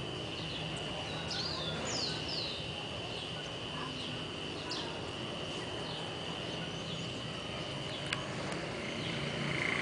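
Birds chirping outdoors, a cluster of quick downward-sweeping chirps a second or two in and a few scattered ones later, over a steady high-pitched whine and a low background rumble. A single sharp click about eight seconds in.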